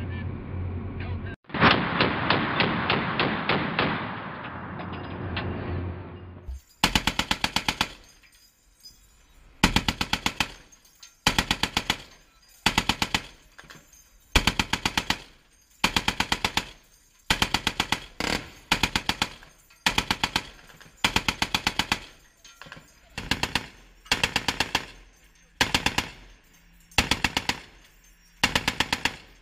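.50-calibre M2 Browning heavy machine gun firing: a long continuous burst for about six seconds, then, from about seven seconds in, a steady string of short bursts of a few rounds each, roughly one burst every second and a half.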